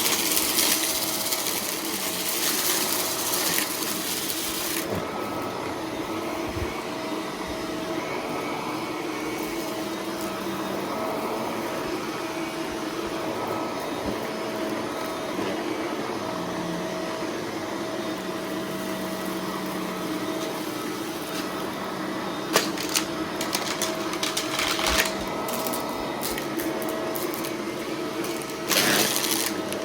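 Shark vacuum cleaner running steadily while picking up confetti from a rug. The first few seconds hold a loud rushing hiss of air; about five seconds in the sound turns duller. From about 22 seconds in, sharp crackles and clicks of debris rattling through it come and go, with a louder crunch near the end.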